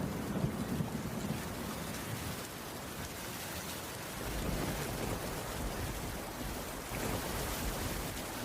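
Heavy rain falling steadily, an even hiss, with a low rumble in the first second and again around the middle.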